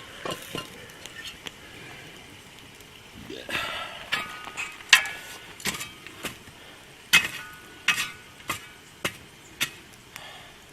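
Metal clanks and scrapes on a cast-iron camp oven lid as hot coals are shovelled onto it: about a dozen sharp, ringing knocks at uneven intervals.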